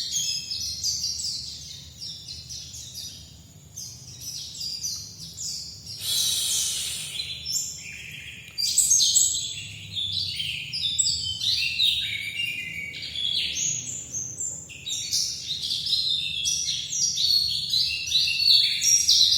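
White-eye (pleci) singing a long, rapid twittering song of short, high, mostly falling notes, with a brief noisy rustle about six seconds in.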